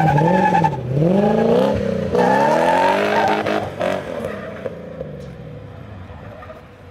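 Drift car's engine revving, its pitch rising and falling several times with short breaks between as the car pulls away and slides through the cones. The sound fades as the car moves off across the lot.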